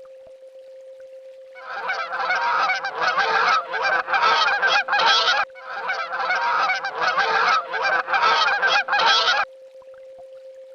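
Swan honking: two runs of rapid, harsh honks, about four seconds each, starting about one and a half seconds in with a brief break between them.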